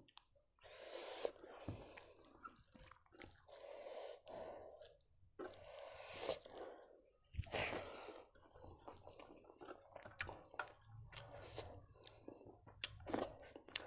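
A person chewing a mouthful of rice and buffalo meat by hand, with irregular wet chewing and lip-smacking sounds and occasional small clicks.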